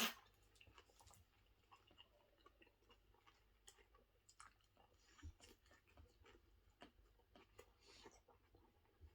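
A sharp click at the start, then faint, close chewing of a footlong Subway sub, with many small scattered mouth clicks.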